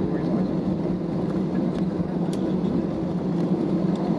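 Steady low rumble inside an Airbus A320neo cabin on the ground after landing: engine and air-conditioning noise, with a faint click about two seconds in.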